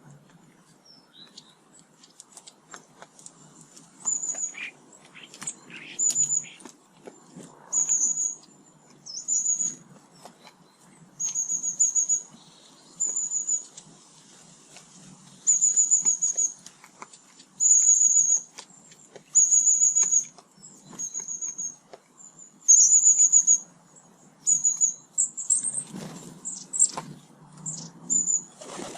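A small songbird repeating short, high trilled calls, one every second or two, with faint taps and rustles between them.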